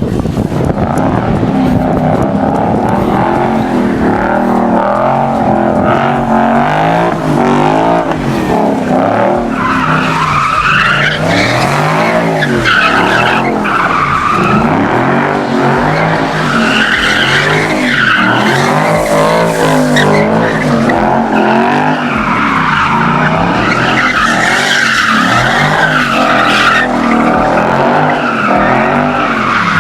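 Nissan 350Z V6 engines revving up and down over and over as the cars drift, with loud, continuous tyre squeal.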